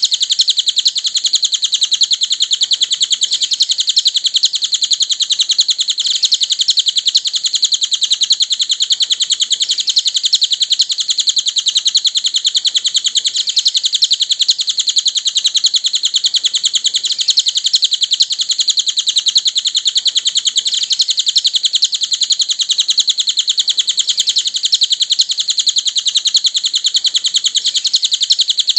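Cililin songbird singing: a fast, unbroken string of high chirps that keeps going without a pause.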